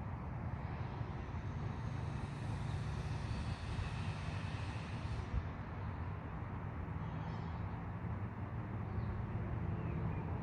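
Thunderstorm: rain hissing steadily over a low, continuous rumble of rolling thunder. A brighter hiss swells soon after the start and falls away about five seconds in.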